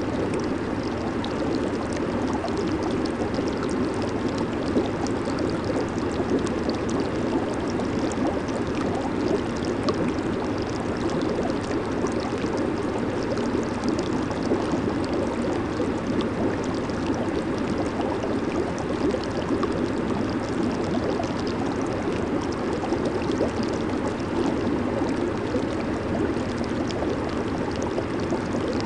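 Jacuzzi water churning and bubbling, a steady even rush with a fine fizz of bubbles and no change throughout.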